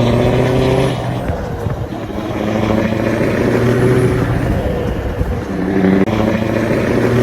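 Truck engine sound running with a low, steady hum; its pitch shifts a few times, as if revving up and settling.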